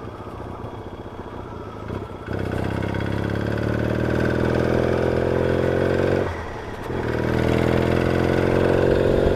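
Yamaha XS650 parallel-twin engine through its open chopper exhaust pipes, pulling away under throttle. The engine note climbs slowly, breaks briefly about six seconds in as he changes gear, then climbs again.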